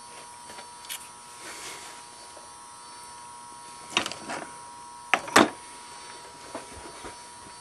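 A few short, sharp clicks and knocks of small basswood strips being handled and set down for gluing, the loudest pair a little past halfway, over a steady hum.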